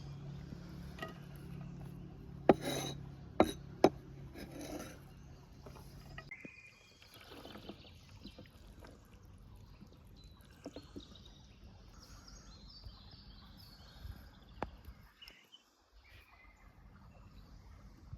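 Cooking utensils and ingredients being handled while a marinade is mixed: a few sharp clinks and knocks between about two and four seconds in, then softer rubbing and handling sounds. Faint high bird chirps come in near the end.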